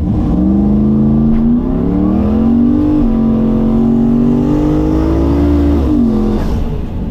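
Turbocharged LS V8 drag car at full throttle on a drag pass, heard from inside the car: the engine pitch climbs, drops once at a gear change about three seconds in, climbs again, then falls away as the driver lifts near the end.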